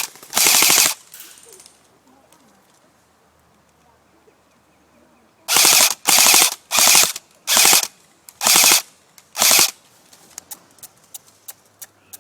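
Airsoft rifle firing short full-auto bursts: one at the start, then about seven bursts in quick succession from about halfway. Scattered faint snaps follow near the end.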